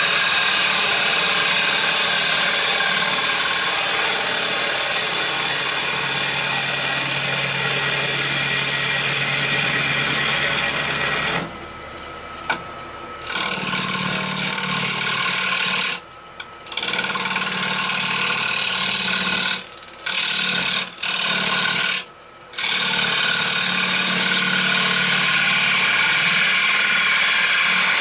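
A woodturning lathe spinning a rowan (mountain ash) bowl blank while a turning tool works the wood. It makes a steady hiss over a low motor hum, which cuts out briefly several times in the middle stretch.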